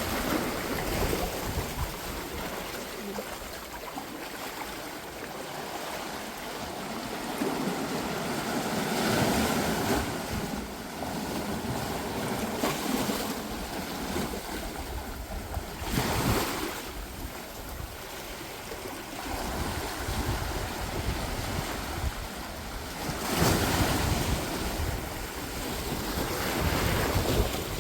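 Ocean surf washing against the shore, swelling and fading several times, with wind buffeting the microphone.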